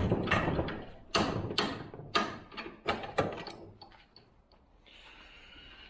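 Metal tools and a chainsaw bar being handled on a workbench: a run of sharp clicks and scrapes, about two a second, that dies away about four seconds in, followed by a faint hiss.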